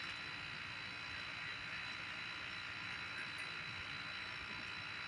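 Steady outdoor night ambience: an even, quiet hiss with a faint constant high tone and no thunder.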